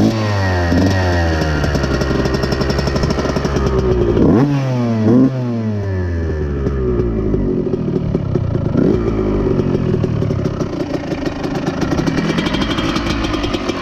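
Dirt bike engine with a Pro Circuit exhaust pipe running near idle, blipped with the throttle several times so the revs shoot up and drop back, twice in quick succession about four seconds in.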